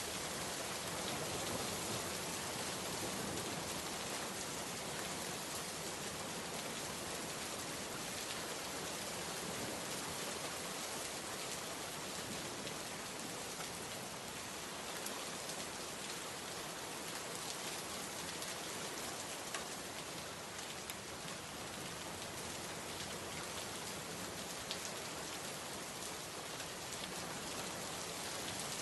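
Heavy rain falling steadily, a dense even hiss with scattered drop ticks on hard surfaces.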